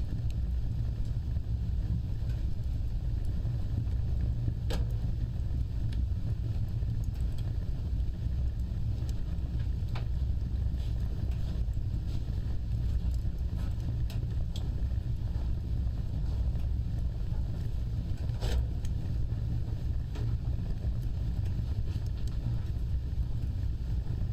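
Fire burning with a steady low rumble of flames and a few sharp, scattered crackles and pops.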